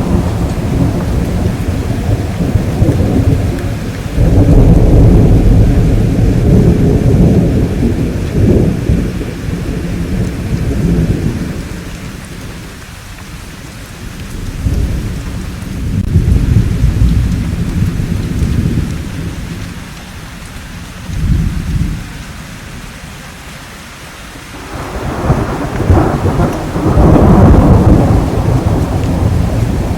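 Thunderstorm: rolling thunder over steady rain. Long deep rumbles swell about four seconds in and again near the end, with a shorter rumble in the middle, and quieter stretches of plain rainfall between them.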